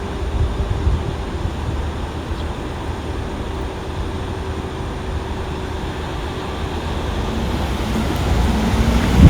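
Low steady rumble of a motor vehicle with a faint steady engine note; near the end a pitched note rises and the sound grows louder as it comes closer.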